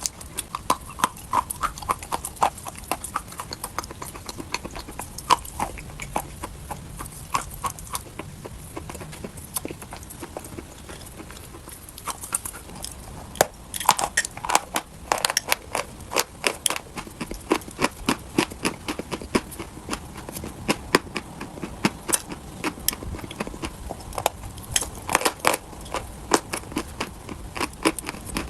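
Dry chalk being bitten and chewed close to the microphone: a run of sharp, irregular crunches and crackles, coming thickest about halfway through and again near the end.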